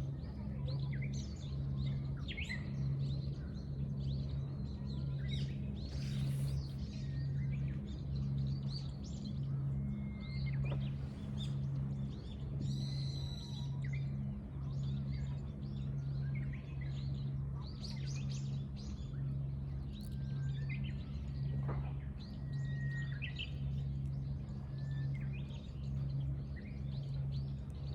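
Several small birds chirping and calling over and over, with a buzzy trill about halfway through. Beneath them runs a steady low hum that swells and fades about once a second.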